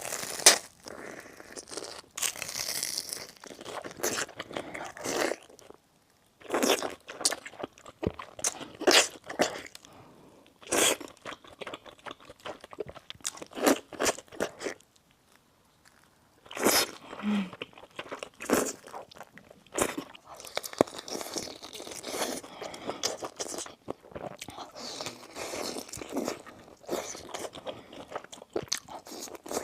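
Close-miked biting and chewing of crunchy food: irregular runs of crisp crunches, broken by a few short silent pauses.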